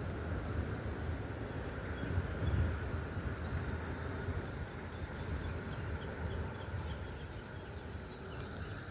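Steady outdoor ambience: a low rumble with faint, scattered high chirps over it.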